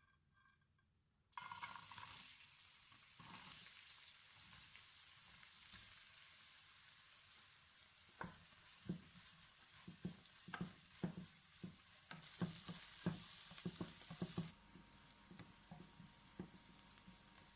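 Onions dropped into hot oil in a pot, sizzling suddenly about a second in and frying steadily after. From about halfway, a spoon knocks and scrapes against the pot as they are stirred.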